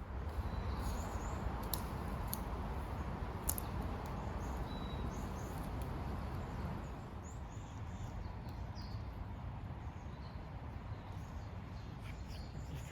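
Steady outdoor background rush with small birds chirping faintly and repeatedly, and a few sharp clicks in the first four seconds.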